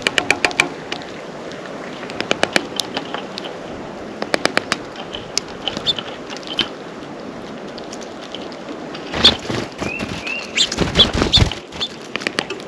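Small birds at a feeder: several bursts of rapid pecking taps, with a few short high chirps. Near the end comes a louder flurry of fluttering and knocking close to the camera.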